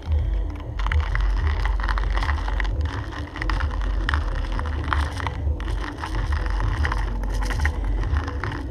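Wind buffeting the microphone, with irregular clicks and rattles of gear being handled.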